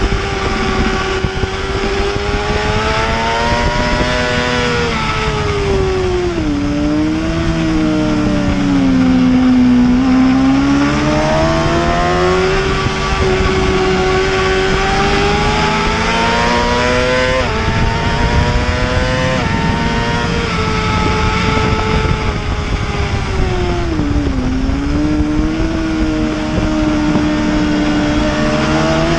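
Heavyweight superbike racing engine at speed, its note climbing and falling repeatedly. It drops steeply three times as it slows, and steps down abruptly twice past the middle as it shifts up a gear.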